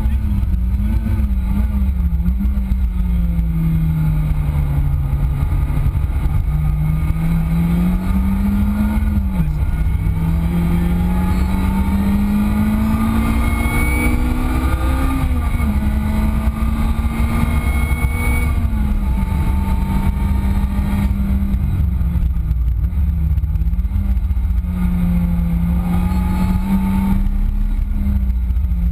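Lotus Exige S's supercharged 1.8-litre four-cylinder engine at speed on track. Its pitch climbs and falls through the revs, dropping sharply at gear changes about nine seconds in and again a few seconds later. A constant deep rumble runs underneath.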